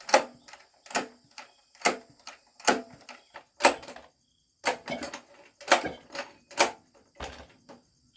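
Repeated sharp knocks of a hand tool striking, about one a second and roughly nine in all, with a short pause about four seconds in. A steady high insect buzz runs underneath.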